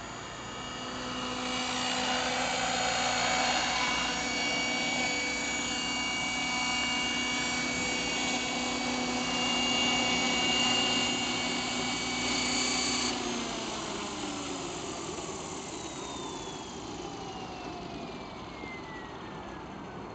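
Electric RC helicopter (Compass Atom 500 with a Bell 206 Jet Ranger scale body) whining steadily with its motor and rotor at speed; about thirteen seconds in the whine drops off and falls steadily in pitch as the rotor spools down.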